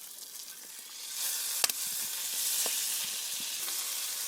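A pan sizzling on a wood-burning camp stove: a steady hiss that comes up about a second in, with a few sharp clicks and knocks.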